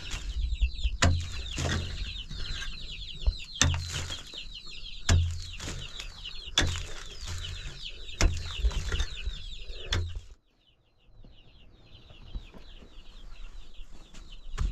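Many birds chirping busily, with a heavy thud about every second and a half. About ten seconds in the thuds stop and the sound drops suddenly; fainter chirping carries on.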